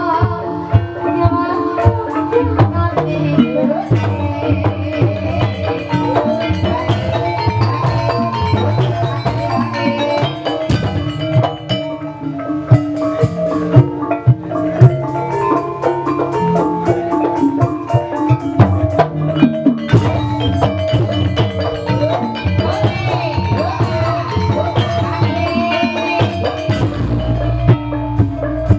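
Live gamelan-style music for an ebeg hobby-horse dance: drum strokes over ringing notes from mallet-struck keyed instruments.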